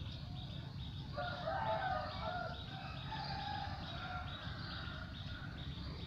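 A bird's long call, about two seconds, starting about a second in. Faint high chirps repeat about twice a second, over a steady low background rumble.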